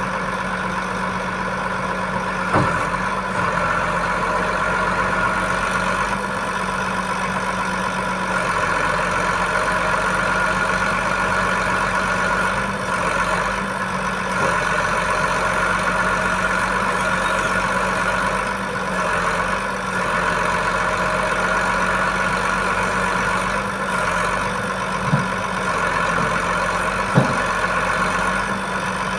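Boom truck's diesel engine running steadily, with three short knocks: one near the start and two near the end.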